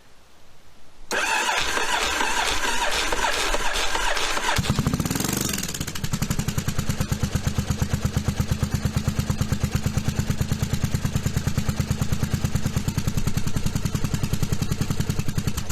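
1982 Yamaha Virago XV750's air-cooled V-twin cranked on the starter for about three seconds, catching with a brief rise in revs, then settling into a steady, evenly pulsing idle. The rear carburettor has just been rejetted to a 128, and the owner judges the mixture still a hair rich.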